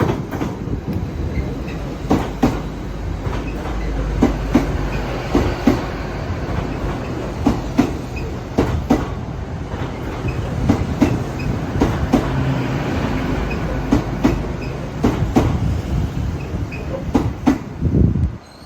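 A train passing through the station: a steady rumble of wheels on rails with many sharp clacks as the wheels run over rail joints and points. The noise cuts off suddenly near the end as the last vehicle goes by.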